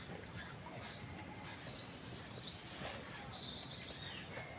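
A bird chirping, short high calls roughly once a second, over a faint steady background hiss.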